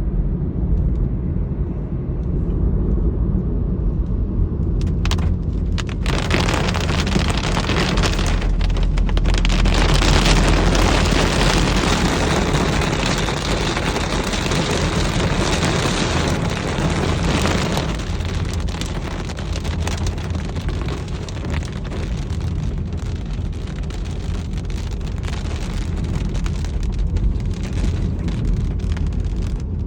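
A vehicle on the road in rain: a steady low rumble under a hiss of rain and wet road noise. The hiss swells about six seconds in and eases off after about eighteen seconds.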